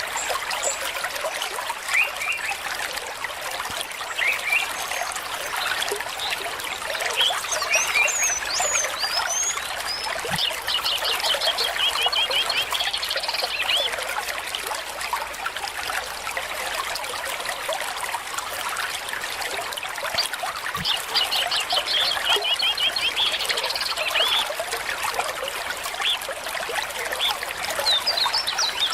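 A small stream trickling and splashing steadily, with birds chirping over it. Twice, about ten seconds in and again near twenty-two seconds, a bird gives a rapid trill of repeated notes.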